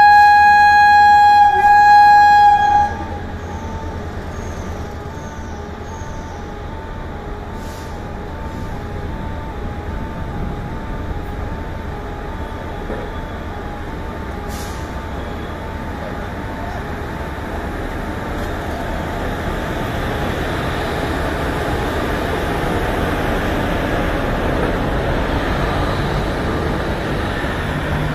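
Indian Railways WAG-5 electric locomotive sounding its horn in one long high blast that stops about three seconds in, followed by the rumble of the locomotive and its coaches on the rails, growing steadily louder as the train draws alongside and passes.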